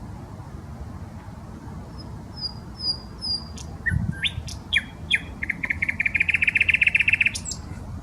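Thrush nightingale singing: about two seconds in, a phrase of four repeated high notes, then sharp clicks and sweeping notes, and a loud, rapid rattling trill near the end, over a low steady background rumble.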